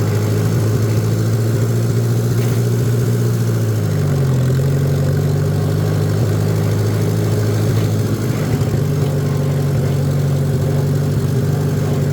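Tractor engine running steadily under throttle while driving in gear, its pitch dipping briefly about four seconds in and then settling again.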